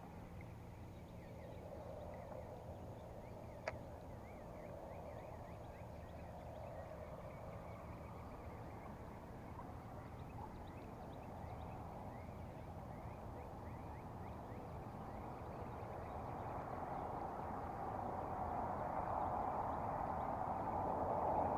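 Birds calling in a dawn chorus, with a single sharp click about four seconds in. Distant road traffic noise swells over the last few seconds.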